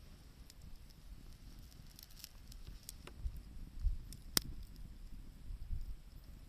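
Wood campfire crackling, with scattered sharp pops, the loudest about four seconds in, over a low uneven rumble.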